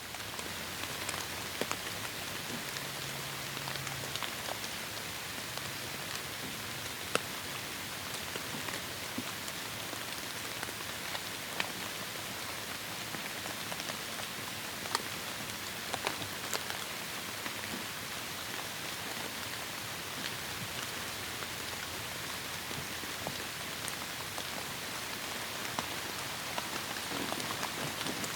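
Heavy rain falling steadily in a rainforest: an even hiss with individual drops striking close by here and there.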